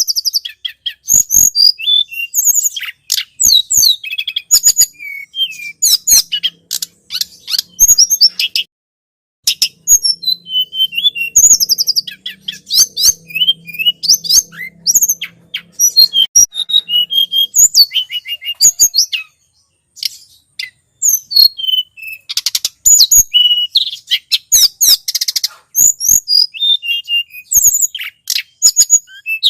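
Lure-call recording of a tledekan gunung: rapid, high-pitched chirps, trills and sweeping twitters in dense runs, broken by short pauses about a third of the way in and again past the middle.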